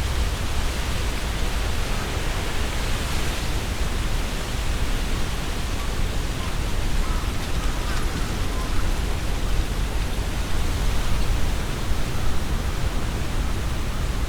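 Strong wind blowing through trees, the leaves rustling steadily, with a deep rumble of wind underneath.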